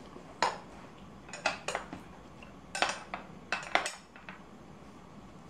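Sharp metallic clinks and knocks, about seven of them, some in quick pairs, from metal tools and bike parts as a saddle is fitted to a folding bike's seatpost; they stop about four and a half seconds in.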